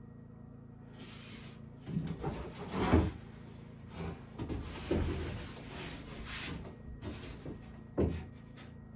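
Wooden knocks, bumps and scraping from wood being handled, like cabinet doors or boards, with the loudest knock about three seconds in and a sharp one near the end, over a steady low hum.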